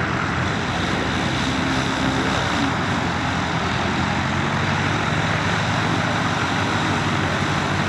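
Light aircraft's piston engine and propeller running steadily at low power.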